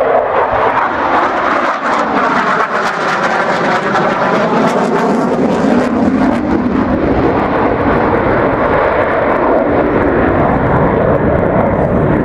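Loud, continuous jet noise from a Eurofighter Typhoon's twin turbofan engines as the fighter flies its display.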